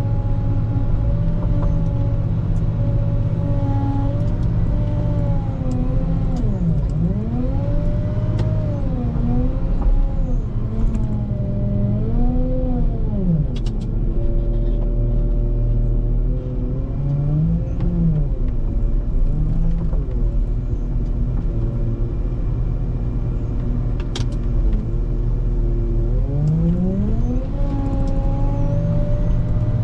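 Volvo L90H wheel loader's diesel engine running steadily under load while snow plowing, with a whine that rises and falls several times as the machine works.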